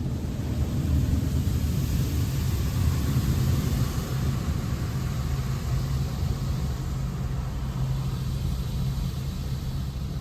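A car running: a steady low engine hum under an even rushing noise, a little louder for a few seconds about a second in.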